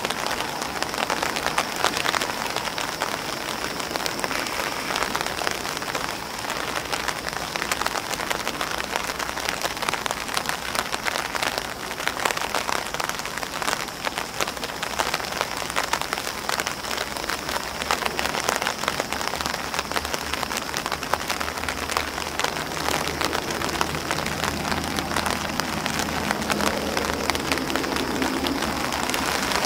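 Steady rain falling on grass leaves and on an umbrella: a dense, continuous patter of drops with many individual ticks.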